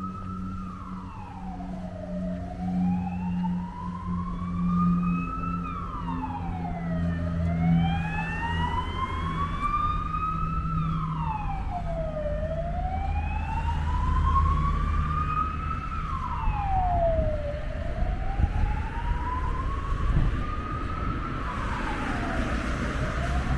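Emergency vehicle siren wailing: each cycle rises slowly in pitch and then drops quickly, about every five seconds, over the low rumble of street traffic.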